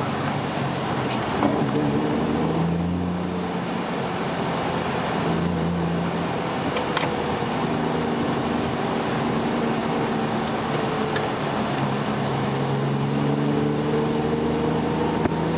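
Toyota JZX100 engine running over a steady hiss of road noise, its note shifting up and down and climbing toward the end.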